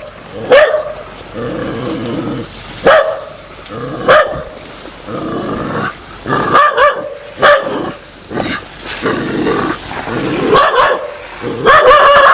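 A dog barking aggressively in sharp, loud barks every second or two, with lower drawn-out growling between the barks: a threatening dog warning that it wants to bite.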